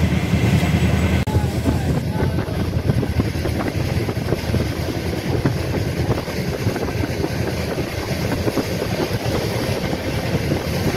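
Saraighat Express passenger train running at speed, heard from inside a coach at the window: a steady low rumble of wheels on rails with many small rattles and clicks.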